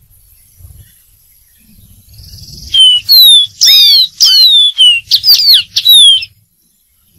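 Dark-throated seedeater singing: after a near-silent start, about three seconds in comes a loud phrase of about eight clear whistled notes, most sliding downward in pitch, lasting about three and a half seconds.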